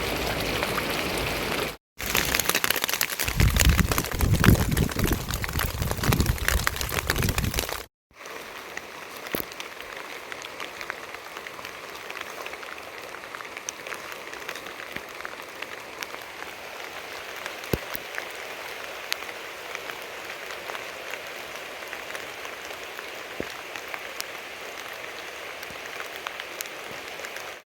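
Rain falling steadily. It is heavy and loud for the first several seconds, then lighter and even after a short break at about eight seconds, with scattered drop ticks.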